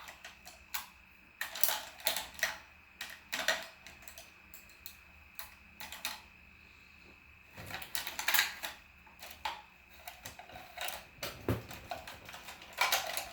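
Irregular clicking and clattering of makeup brushes and small plastic items handled and knocked together while searching for a brush, with a quiet pause in the middle.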